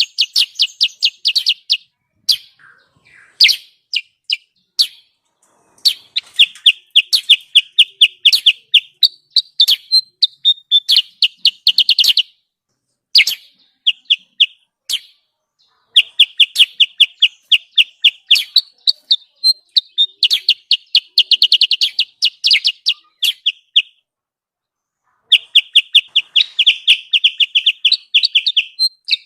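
Recorded lure call of a kutilang sutra bird, a busy chattering of rapid, evenly repeated high chirps. They come in bursts of one to a few seconds with short breaks, the longest about a second and a half near the end.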